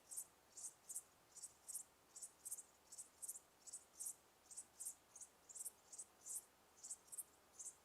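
Cricket chirping: short, high chirps in quick groups of two or three, repeating at a steady pace over a faint hiss.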